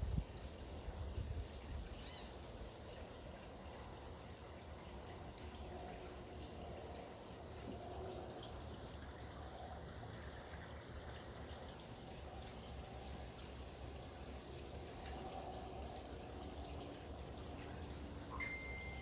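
Water trickling steadily, with a faint series of high chirps from a bird about two seconds in and a short whistled note near the end.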